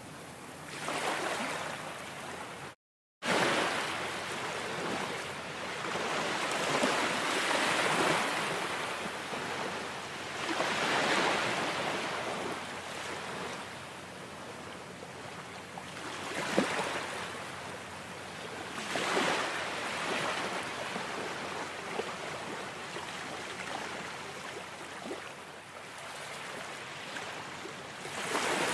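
Ocean surf, waves washing in and swelling and fading every few seconds, with a brief complete dropout about three seconds in.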